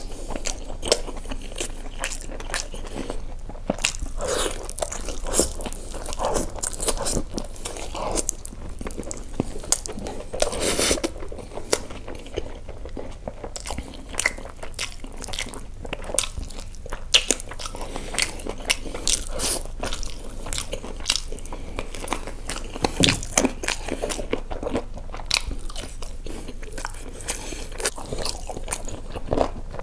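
A person biting and chewing butter chicken drumstick meat, with many short, irregular clicks of chewing.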